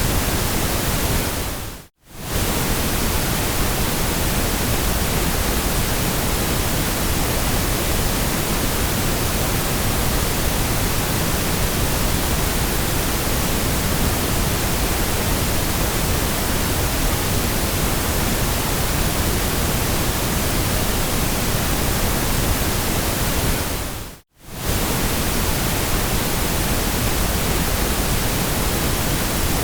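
Steady white-noise hiss, even from low to high, that cuts out briefly to silence and fades straight back in twice, about two seconds in and near the 24-second mark.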